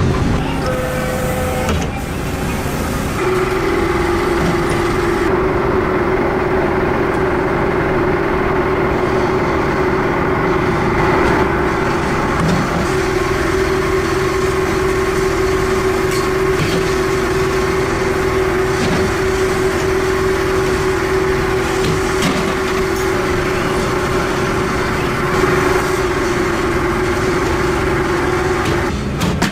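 Workshop machinery running steadily with a constant hum over a dense mechanical noise, with a few light clicks here and there.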